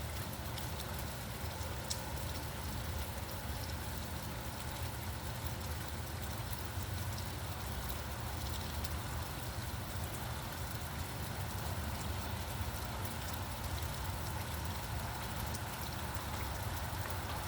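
Steady rain, with many small drop ticks, over a constant low rumble of distant traffic.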